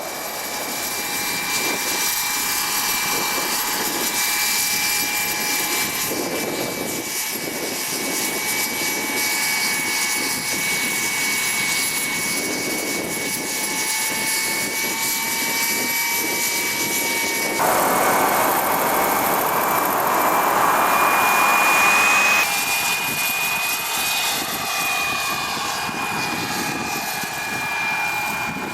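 WREN model gas turbine of a 1:4 scale Lama SA 315B model helicopter running, a steady high turbine whine over rotor noise. About two-thirds through, the sound turns louder and rougher for about five seconds and the whine rises a little, then it drops back to the steady whine.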